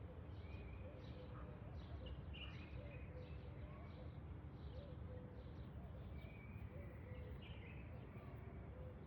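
Birds chirping, a string of short high calls at about two a second, over a steady low background rumble.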